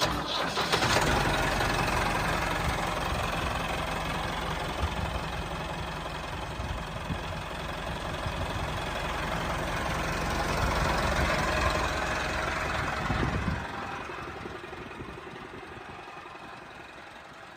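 A small engine running steadily with a low rumble. The rumble drops away about thirteen seconds in, and the sound fades.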